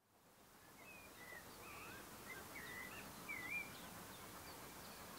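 Birds chirping and warbling over a faint open-air hiss, fading in at the start, with one louder warbled call about three and a half seconds in.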